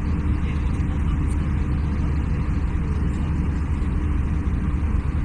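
Steady low engine rumble that holds at an even level, with no sudden events.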